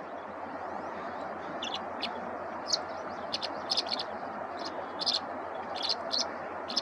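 A songbird giving short, high chirps, singly and in quick runs, starting about two seconds in, over a steady background hiss.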